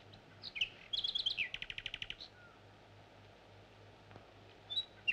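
A songbird singing: a few quick high chirps, then a fast trill of rapidly repeated notes lasting about a second, and more chirps near the end, over a steady low hum.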